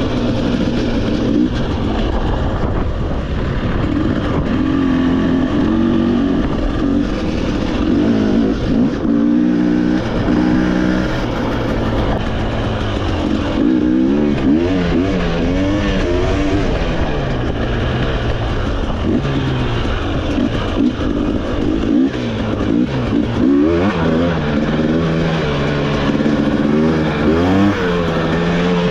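Off-road motorcycle engine running while riding a trail, its pitch rising and falling again and again as the throttle is opened and closed and gears change.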